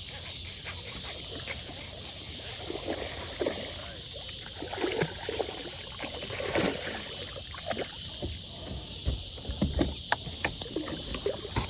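A steady high-pitched chorus of insects, with scattered short knocks, rustles and light water sounds from a kayak and fishing gear being handled.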